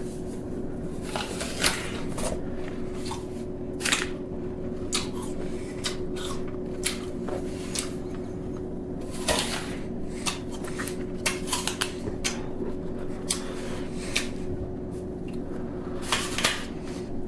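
Irregular light clicks and knocks over a steady hum.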